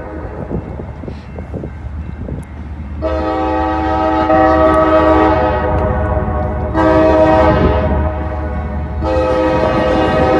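Diesel locomotive's multi-note air horn sounding a series of blasts: a long blast starting about three seconds in, a second after a brief break, and a third starting near the end, over a steady low rumble and wind noise.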